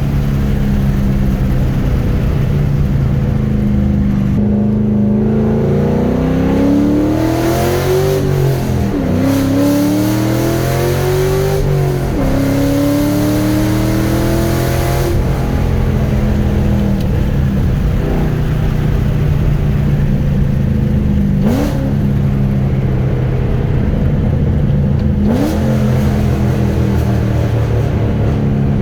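Straight-piped, cammed 2005 3-valve V8 pulling through the gears at part throttle: its pitch climbs, drops at two gear shifts and climbs again, then it settles into a steady lopey cruise with two short throttle blips near the end.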